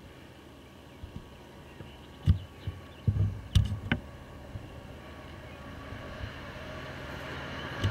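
Class 66 diesel locomotive, with its EMD two-stroke V12, approaching: a low engine hum that grows steadily louder. Several dull thumps stand out about two to four seconds in, the loudest sounds here.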